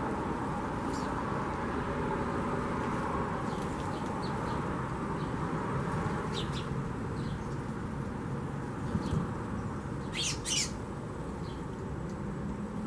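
Wild birds chirping in short high calls scattered over a steady low background noise, with the loudest pair of chirps about ten seconds in.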